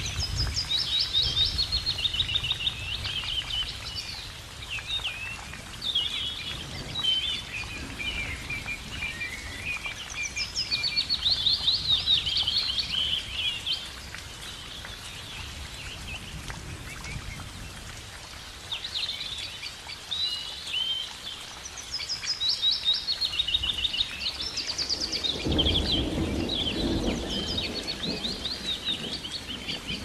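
Small songbirds singing, with repeated quick chirping and trilling phrases in bursts throughout, over a steady hiss. A low rumble joins for a couple of seconds near the end.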